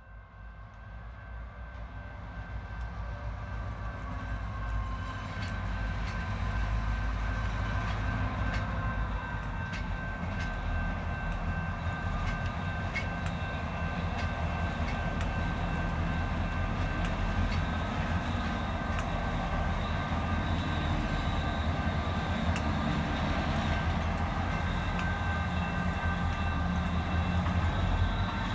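Freight train approaching: a diesel locomotive's low rumble grows louder over the first several seconds and then holds steady, with steady high whining tones above it and scattered sharp clicks.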